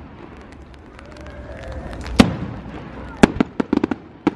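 Aerial firework shells bursting: a sharp bang about two seconds in, another about a second later, then a quick run of crackling pops near the end.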